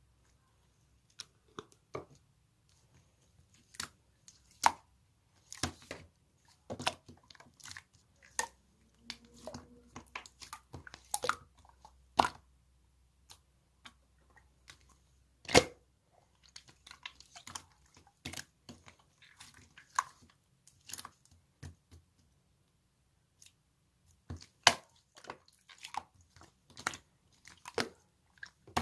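Slime being squeezed and worked by hand, making irregular sticky clicks and pops, the loudest about halfway through.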